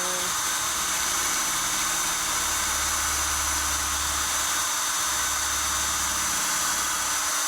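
Electric drill running steadily as it bores a small pilot hole through the thin metal of three-rail O gauge tubular track, with a deeper hum joining in through the middle of the run.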